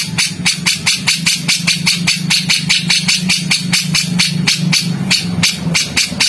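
A songbird's harsh, rapid chattering call: a fast even run of sharp high notes, about six a second. This is the rough 'tembakan' style of call used in masteran recordings for training songbirds. A low steady hum runs underneath and fades out near the end.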